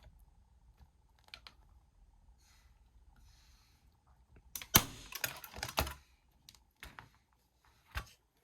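Quiet handling, then a hand staple gun snaps once about halfway through, followed by a quick run of smaller clicks and rustling as it is handled, and one more sharp click near the end. The staple is pressed in lightly against a chenille stem on the back of a wood sign.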